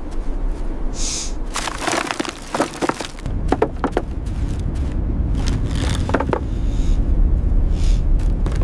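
A series of sharp cracks and crunching noises, thickest in the first half, over a low rumble that swells in the second half.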